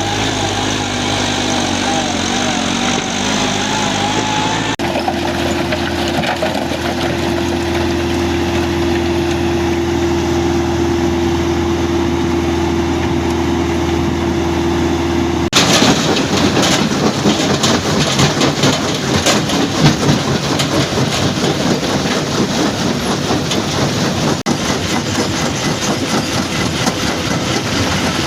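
Stone crusher plant machinery running. First comes a steady engine-like hum with one held tone. About halfway through the sound changes abruptly to a louder, dense rattling clatter with many knocks, typical of rock going through a crusher.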